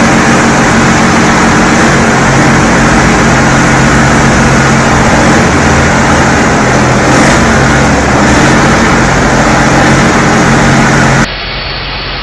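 A vehicle engine running loud and steady, a constant hum under a thick wash of noise. About 11 s in it cuts off abruptly to a quieter engine sound.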